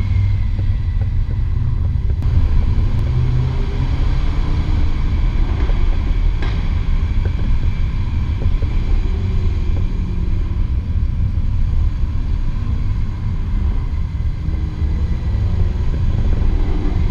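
Jaguar F-Type R's supercharged 5.0-litre V8 running at low, fairly steady revs while driving in traffic: a deep, even exhaust rumble whose pitch drifts gently up and down, with no big revs or crackles.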